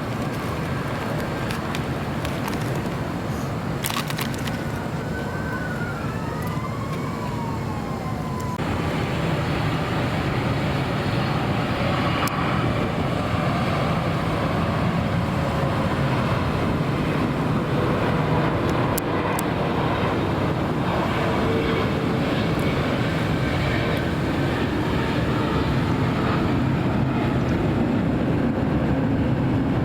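Jet airliner noise mixed with steady road traffic, growing louder about nine seconds in. Brief gliding tones rise and fall a few seconds before that.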